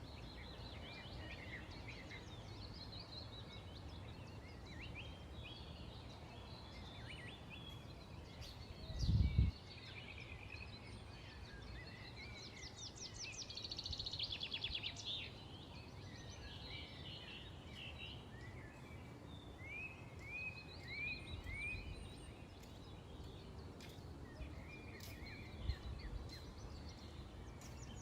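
Many small birds chirping and twittering over a steady outdoor hum, with a fast trill near the middle and a run of short falling chirps later on. A single low thump about a third of the way in is the loudest sound.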